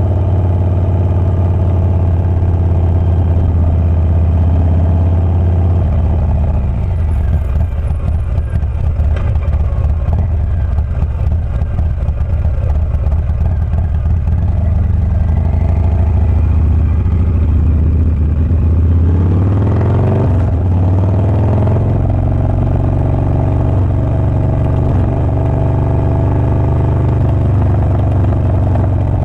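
Harley-Davidson Milwaukee-Eight 117 V-twin with a Wood Performance 777XE cam, running with a deep, steady exhaust note. Around twenty seconds in it revs up and drops back before settling again.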